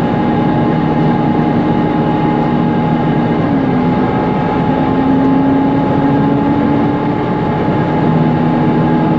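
Mercedes-Benz Conecto NGT city bus heard from inside while under way: its OM 936 G natural-gas engine running, with the loud, noisy cooling fan giving a steady whine over it. The engine note dips and then rises slightly about three and a half seconds in.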